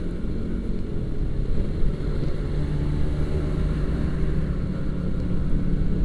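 Kawasaki Ninja RR 150's single-cylinder two-stroke engine with a racing exhaust, running at a steady, even pitch while cruising, under a low rumble.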